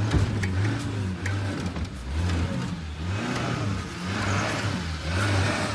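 Maruti Gypsy's engine revving up and down in repeated surges as the 4x4 strains to drive out of deep snow.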